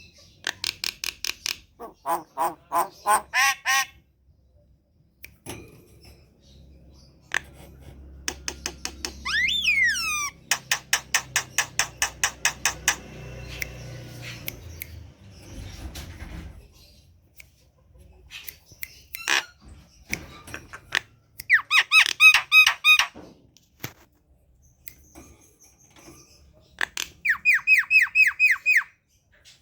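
Javan myna (jalak kebo) calling in several bursts of rapid, evenly repeated harsh notes, with a quick rising-and-falling whistle in the longest burst, about a third of the way in.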